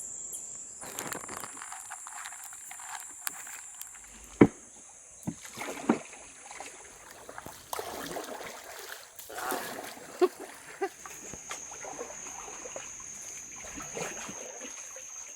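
Water sloshing around a small boat, with a few sharp knocks against the hull, over a steady high-pitched drone of insects.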